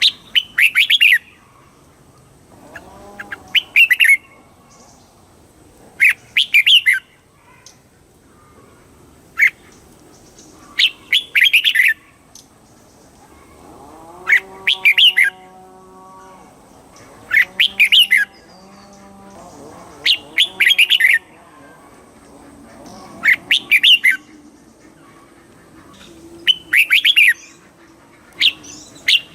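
Red-whiskered bulbul singing short, loud, chattering phrases, one about every three seconds, about ten in all.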